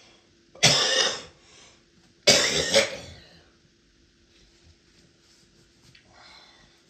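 A person coughing twice, two loud harsh coughs about a second and a half apart.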